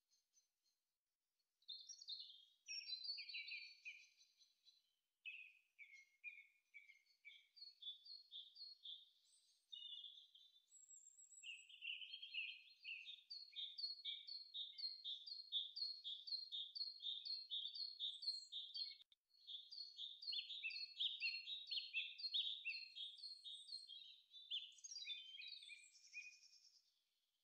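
Quiet birdsong: a bird singing runs of short, rapidly repeated chirping notes, about three a second, with a brief pause partway through.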